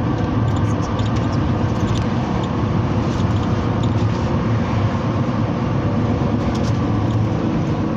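Cabin noise inside a Mercedes-Benz Sprinter minibus on the move: steady engine and road noise, with scattered light clicks and rattles.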